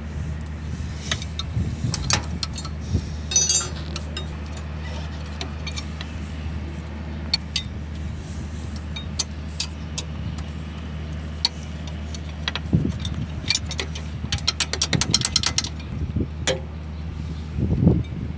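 Six-cylinder diesel engine idling steadily, with scattered sharp metallic clicks and clinks over it and a quick run of clicks near the end.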